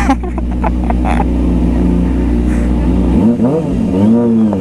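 Kawasaki ZX-25R's 249 cc inline-four engine running steadily, then revved twice about three seconds in, its pitch rising and falling each time. A few short sharp sounds come near the start.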